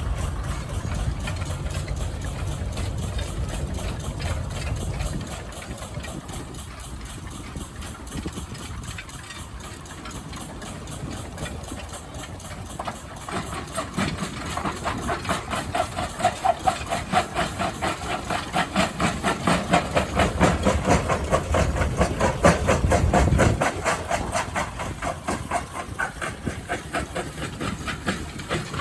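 An engine running with a rapid, regular exhaust beat that grows louder from about halfway through and then fades away. A low rumble fills the first few seconds.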